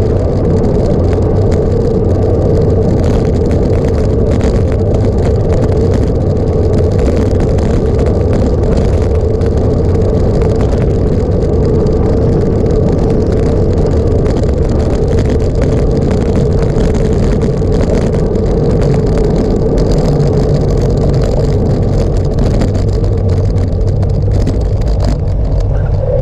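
Steady running noise of a vehicle travelling at an even speed: a constant hum with one steady tone over a noisy rush, unchanging throughout.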